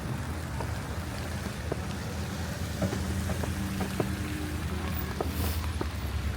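Snowy city street ambience: a steady low rumble of vehicle traffic, with footsteps in snow ticking along at a walking pace, a little under two steps a second.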